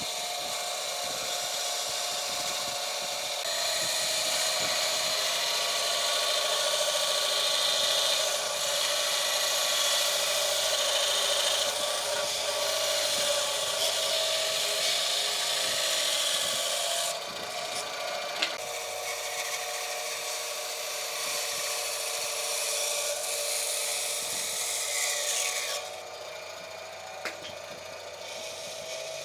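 A woodworking power tool running steadily against wood, a motor tone under a continuous abrasive noise. It gets quieter about 17 seconds in and again near 26 seconds.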